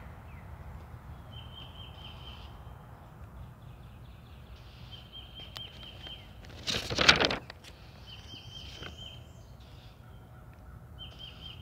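A bird's short, even trill at one high pitch, repeated about every three seconds. About seven seconds in comes a louder paper rustle as a picture-book page is turned.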